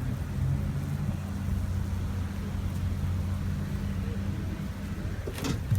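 A steady low mechanical hum, like an engine or motor running, with a brief sharp sound near the end.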